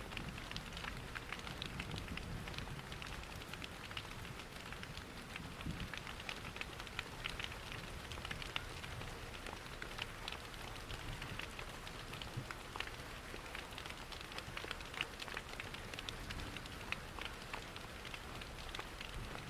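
Steady rain pattering, with a low rumble underneath and frequent small crackles and pops from a wood fire in a fireplace.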